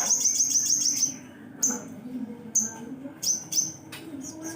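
Sogon bird singing: a fast, high trill of about ten chirps a second that stops about a second in, then single sharp high chirps every half second or so.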